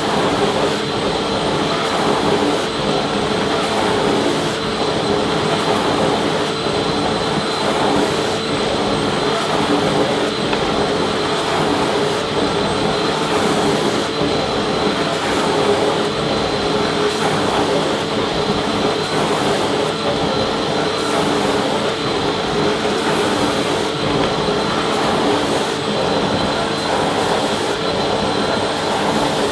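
Vacuum cleaner running steadily: a constant motor whine and airflow rush with a few steady tones, loud and unbroken.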